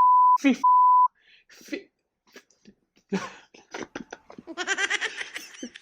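A steady, high, single-pitch bleep tone, broken once by a short voice fragment, cuts off about a second in. After a pause come scattered short vocal sounds, then a quavering, pulsing vocal sound near the end.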